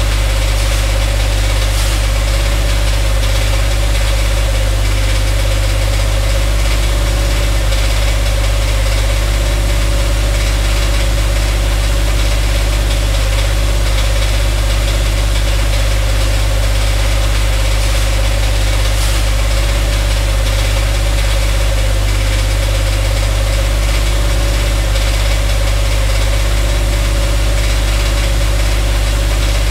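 The Dodge Dakota's 5.9 L (360) Magnum V8 runs steadily, heard from underneath the truck. The owner is hunting a ticking noise that comes only when the engine is unloaded, and he has not yet traced it to either the block or the transmission bell housing.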